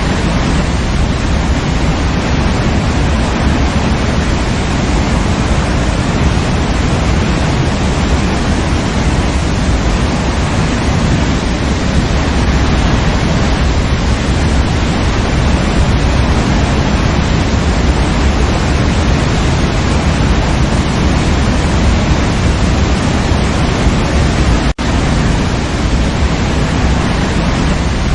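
Waterfall rushing: a loud, steady roar of falling water that cuts out for an instant about three-quarters of the way through.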